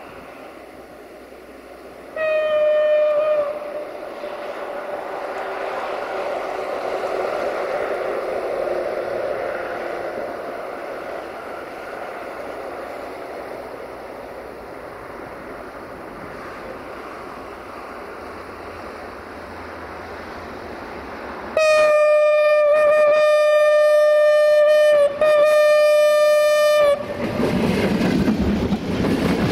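Class 614 diesel multiple unit approaching and sounding a short single-note horn, then a long horn blast broken by a brief gap, before passing close by with a loud rush of wheel and engine noise near the end.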